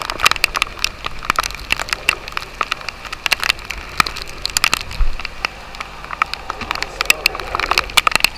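Heavy rain striking the sailboat and the microphone: a dense, irregular run of sharp drop impacts, several a second, over a wash of rain noise.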